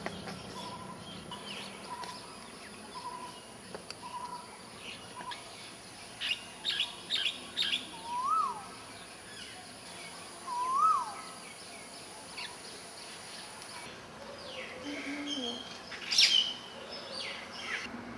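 Birds calling outdoors: a run of short repeated notes, then clusters of quick chirps and two rising-and-falling whistled calls, with a sharp loud call near the end.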